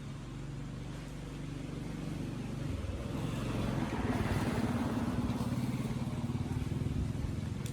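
Motorbike engine running; it changes note and grows louder about three seconds in, then holds there.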